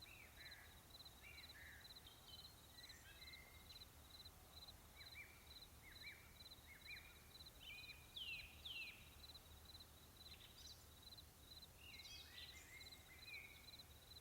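Faint wild birdsong: several birds giving short chirps and down-slurred whistles, the loudest pair about eight seconds in. Under them a high note repeats steadily, about three times a second.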